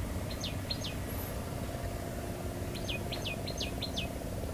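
Bird chirps: short, quickly falling high notes, three about half a second in and a quicker run of about six around three seconds in, over a steady low background hum.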